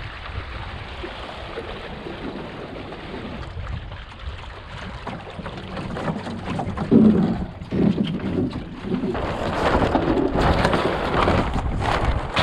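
Wind buffeting the microphone and water splashing against the hull of a small sailboat under way in a stiff breeze. There is a short louder burst about seven seconds in, and the rush grows louder from about nine seconds in.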